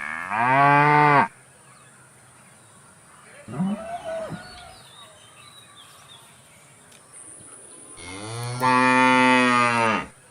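Cow mooing: two long, loud moos, one at the start and one near the end, with a shorter call between them.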